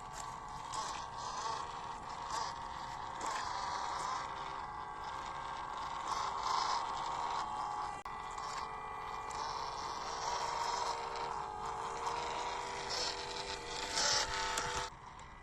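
Small electric motors and gearboxes of 1/16-scale WPL C24 RC crawler trucks whining as they drive, the pitch wavering slightly with throttle, with tyres crunching and scraping over the trail. The sound drops off abruptly near the end.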